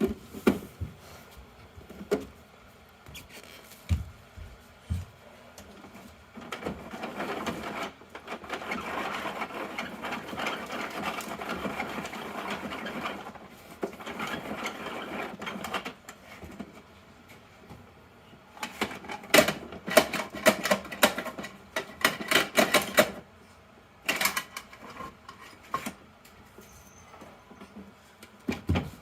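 Plastic toy garbage truck being worked by hand: a few knocks, then a long steady mechanical rattle, and later runs of quick clicking and ratcheting.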